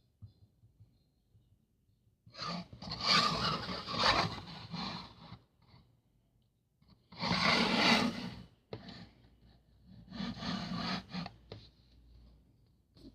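Rubbing and scraping of packaging being handled, in three bursts of a few seconds each with short quiet gaps between them.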